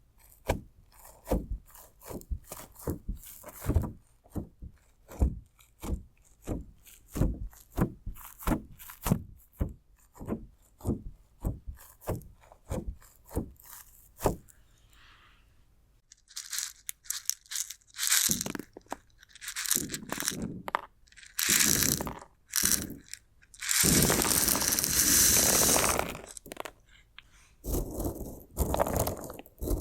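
Crunchy slime and decorative stones being worked close to the microphone: sharp separate taps and clicks, two or three a second, for about the first half. After that come longer crunching, tearing and scraping strokes, with one long, dense crunch about two-thirds of the way in.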